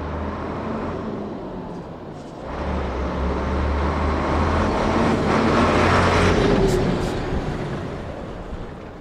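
A 1989 Scania 93M 280 lorry's nine-litre six-cylinder turbo-diesel running with a steady low drone. It grows louder about two and a half seconds in, is loudest around six seconds, then fades away.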